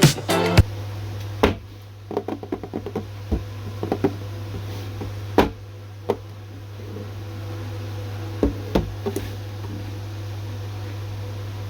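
Hands handling a diecast toy car model, making scattered clicks and knocks at irregular times over a steady low hum.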